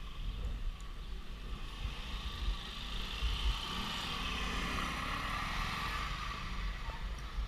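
Motorcycle on the move: engine and road noise with wind buffeting the microphone, and a rushing hiss that swells in the middle and fades near the end.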